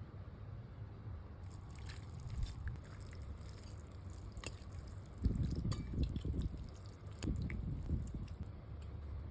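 A person eating close to the microphone: wet chewing and mouth sounds with scattered small clicks, the chewing heavier in bursts from about five seconds in.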